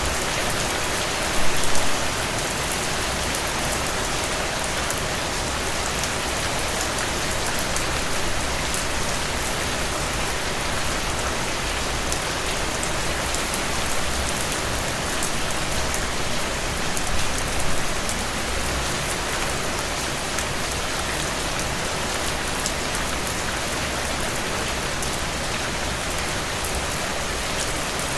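Steady rain falling, an even hiss of many drops, briefly louder about two seconds in and again a little past halfway.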